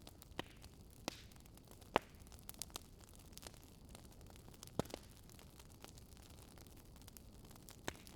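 Wood fire crackling: a faint steady hiss with irregular sharp pops and snaps. The loudest pops come about two seconds in and again near five seconds.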